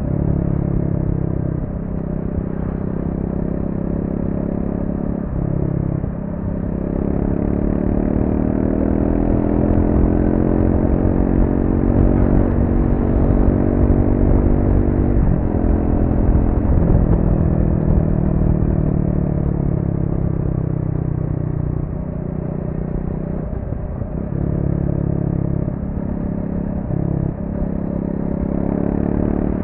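Triumph Speed 400's single-cylinder engine on its stock exhaust, ridden through corners. The engine note breaks off and picks up again at several gear changes. In the middle it climbs steadily in pitch to its loudest, then falls away, with a few more breaks near the end.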